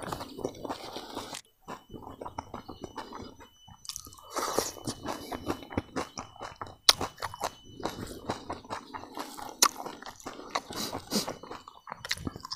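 Close-miked chewing and crunching of crispy fried grasshoppers with rice, with irregular crisp crackles and a few sharper cracks.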